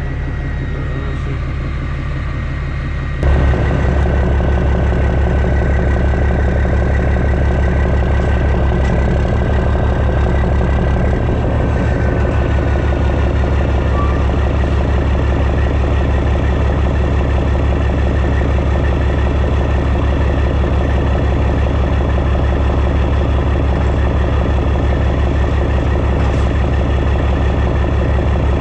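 Heavy diesel engine running steadily with a deep rumble, growing louder about three seconds in.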